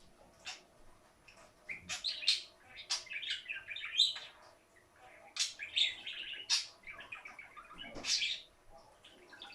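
Pet budgerigar chirping and warbling: quick runs of short chirps and chattering notes, busiest in the middle, with a few sharp high chirps standing out.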